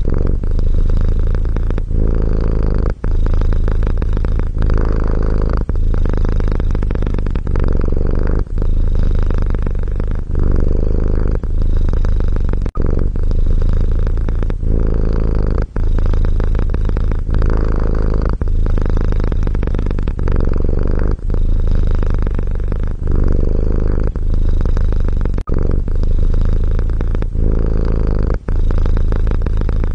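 Domestic cat purring: a steady low rumble broken by a brief dip about every second and a half.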